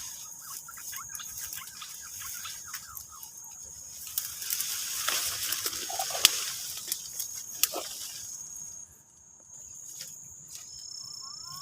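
Insects trilling in one steady high tone, with rustling and a few sharp clicks in the middle few seconds.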